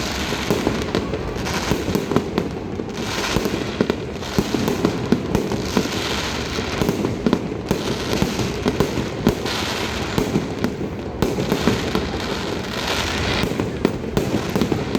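Fireworks display: a dense, continuous stream of crackling pops and bangs with no let-up.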